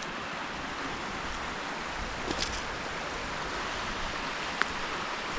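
Steady rushing of running water from a stream, with a faint click near the end.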